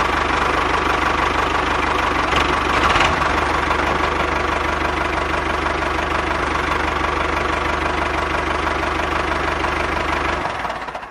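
An engine running steadily at idle with a fast, even knocking pulse and a low rumble, fading out near the end.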